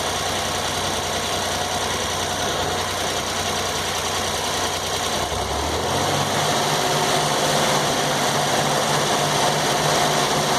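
Circular sawmill running, its engine and blade turning steadily. About six seconds in the low engine note changes, a regular pulsing beat sets in and the sound grows a little louder, as if the mill has taken on load.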